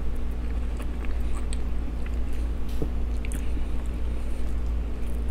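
A person chewing a mouthful of loaded baked potato, with scattered small wet mouth clicks, over the steady low hum of a room fan.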